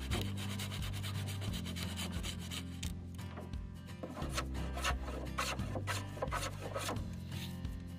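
A hand tool scraping and rubbing along wood in repeated strokes, with low sustained background tones underneath.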